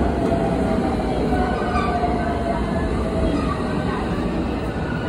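JR West electric commuter train running alongside the platform: a steady rumble of wheels on rail, with a whine that slowly falls in pitch as the train slows.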